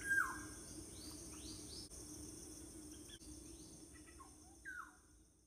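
Faint birds chirping: a few short calls that sweep downward in pitch, the loudest at the very start and another near the end. Under them runs a steady high-pitched drone.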